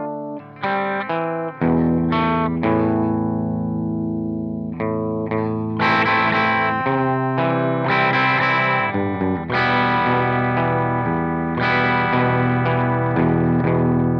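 Guitar music played through effects: picked notes and ringing chords over a sustained low note that comes in about a second and a half in.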